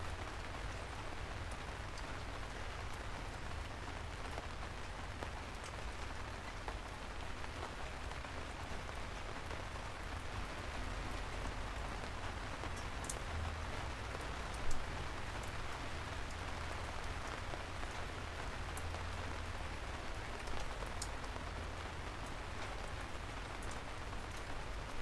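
Steady rain falling, an even hiss with scattered sharp drop ticks and a low rumble underneath. One louder knock stands out about fifteen seconds in.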